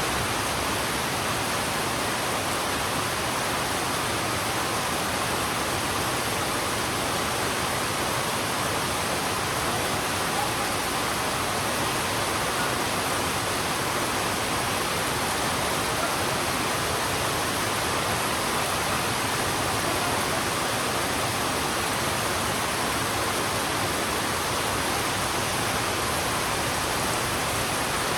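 Heavy rain falling on a road: a steady, even hiss.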